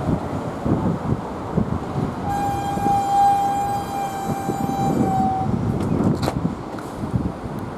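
A Nankai train's horn sounds one steady, held note for about three seconds, over the rumble and clatter of a train running along the track. There is a sharp clank near the end.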